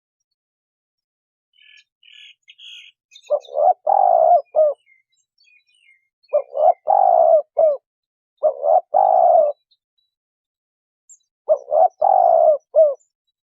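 Spotted dove cooing: four phrases a second or two apart, each a few short coos around one longer, slightly falling note. Faint high chirps of a small bird come before the first phrase.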